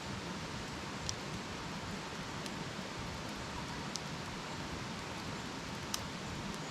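Wood campfire burning with a steady hiss and a few sharp crackling pops, the loudest about six seconds in.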